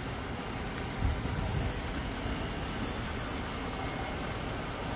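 Steady low rumble of vehicle engines and traffic, with a brief louder low thump about a second in.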